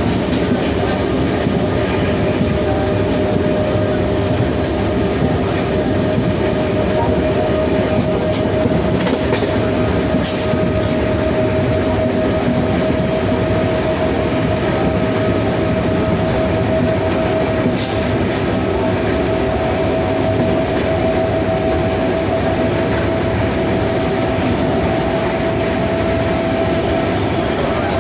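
WAP-7 electric locomotive's traction motors whining at a steady pitch that creeps slowly higher, over a dense, steady rumble of the train running on the rails.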